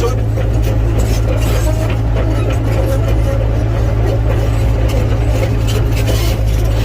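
Excavator's diesel engine running steadily, a low even drone, with scattered clatter over it.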